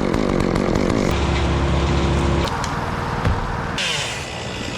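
Chainsaw and engine noise in short cut-together clips. It starts with a motor revving down, then switches abruptly between steady machine sounds about every second or so.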